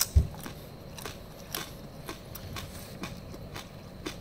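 Crispy roast pork skin (babi guling crackling) being chewed close to the microphone: sharp crunches about two or three times a second, with a heavier bite right at the start. The skin is still crisp, not gone tough.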